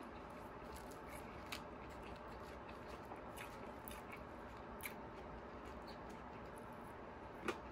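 Faint eating sounds: a person quietly chewing French fries, with a few scattered small clicks, the sharpest near the end, over a steady low hiss.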